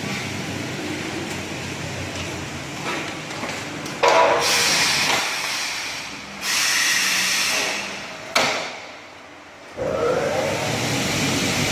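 Double-head aluminium cutting saw running, with sudden loud noisy spells partway through that hiss up into the highs. There is a short dip near the end, then the motor comes back with a rising whine.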